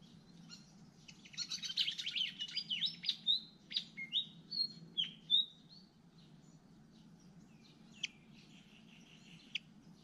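Malaysian pied fantail chicks begging at the nest with a dense run of rapid, high chirps mixed with short whistled notes, loudest in the first half, then only scattered chirps and two sharp ticks near the end. It is the hungry call of nestlings being fed.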